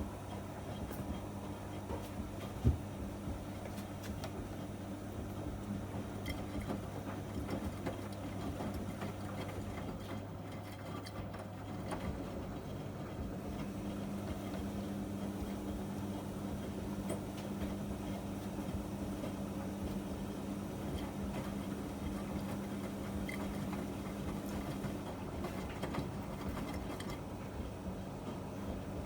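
Miele MedicWash W2585 washing machine running through its hygiene programme, a steady mechanical hum with a low drone. A single sharp click sounds about three seconds in.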